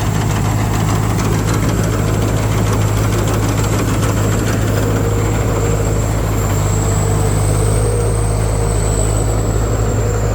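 Combine harvester's diesel engine running steadily: a deep even hum, with a thin high-pitched whine held above it throughout.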